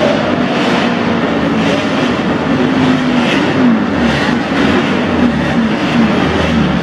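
Vintage racing motorcycle engines, from bikes built up to 1972, running hard on a circuit. The revs climb and drop repeatedly through gear changes, and a deeper rumble joins about four seconds in.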